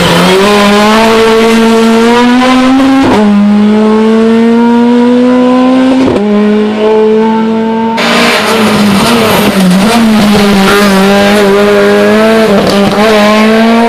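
Rally car engine accelerating hard at high revs, pitch climbing steadily through two quick upshifts, about three and six seconds in. About eight seconds in the sound switches abruptly to an engine held at high revs with small dips and wobbles.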